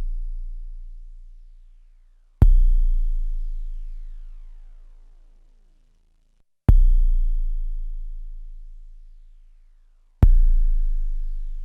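Sampled bass drum with a long, deep decaying boom, played from an SP1200 sampler. It strikes three times, about four seconds apart, each hit opening with a sharp click, while an earlier hit fades out at the start.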